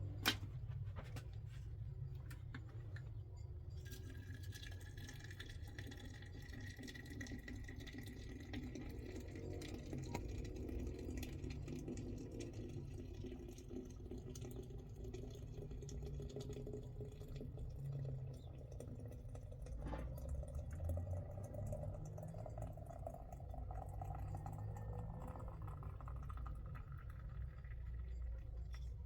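Water running into a container for about twenty seconds, its pitch slowly rising as the vessel fills, over a low steady rumble.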